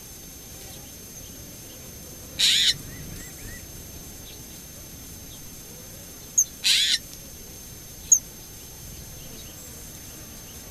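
A bird giving two short, harsh calls about four seconds apart, with a few brief high chips between and after them.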